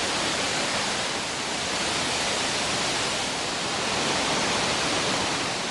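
Steady rush of fast-flowing water, even and unbroken.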